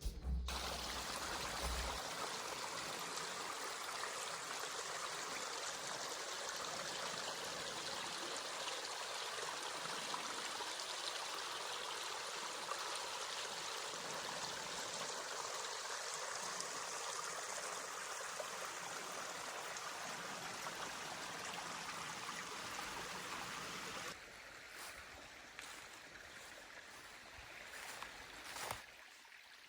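Mountain stream rushing over rocks, a steady wash of running water. About 24 seconds in it drops to a much quieter level, with a few faint ticks near the end.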